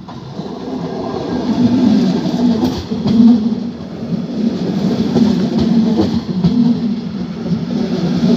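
Train moving through a railway station close by, its sound swelling over the first two seconds and then staying loud, with a steady low hum under the rolling noise.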